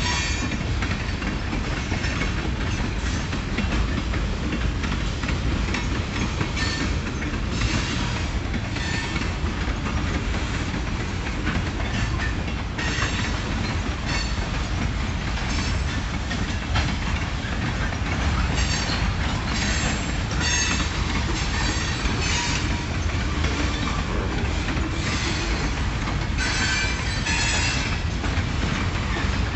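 Freight train of covered hopper cars rolling past: a steady rumble and clatter of steel wheels over the rail joints. High wheel squeal cuts in again and again, strongest about two-thirds of the way through and again near the end.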